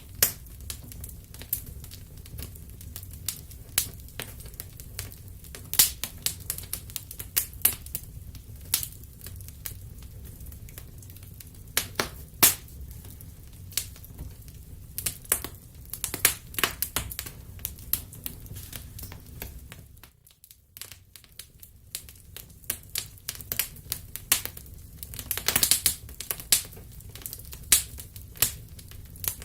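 Wood fire crackling, with irregular sharp pops and snaps over a steady low rumble. The sound briefly drops away about two-thirds of the way through, then the crackling resumes.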